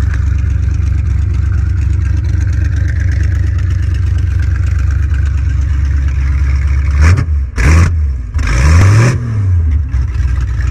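Carbureted V8 engine in a rat-rod buggy idling steadily, then blipped twice quickly about seven seconds in and revved higher once near nine seconds before settling back to idle.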